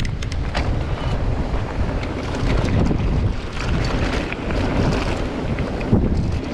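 Strong wind buffeting the microphone in a loud, continuous low rumble, with scattered short clicks and rattles throughout.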